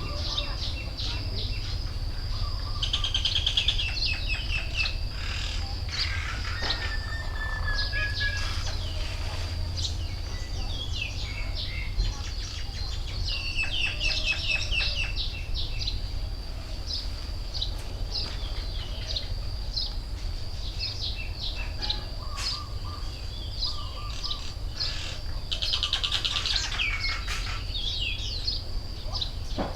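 Several wild birds chirping and calling, with bursts of fast trills about 3 seconds in, around the middle and near the end. A steady high thin tone and a low rumble run underneath.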